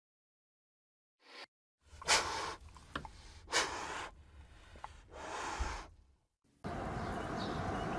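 A few heavy, noisy breaths, each about half a second to a second long, after a moment of silence.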